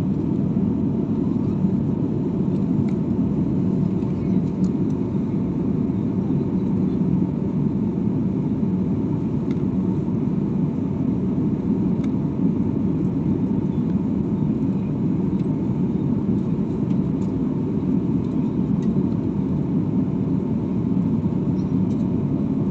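Steady low rumble of an airliner's jet engines as the plane moves on the ground, with a faint steady whine on top.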